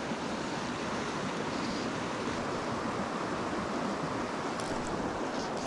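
Small mountain creek rushing and splashing over rocks, a steady even wash of water noise.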